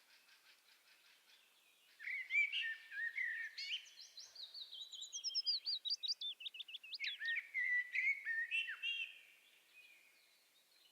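Songbirds singing: faint rapid ticking, then about two seconds in a run of varied whistled phrases and fast trills, fading away near the end.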